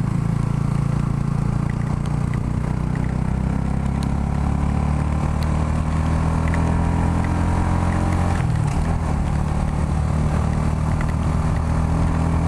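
Yamaha YZF-R125's 125 cc single-cylinder four-stroke engine running steadily under way. Its note dips briefly and then comes back about two-thirds of the way through.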